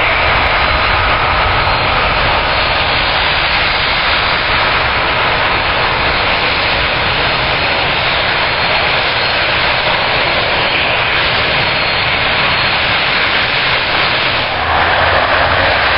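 Jet airliner engines running with a steady, loud rushing noise, getting slightly louder near the end.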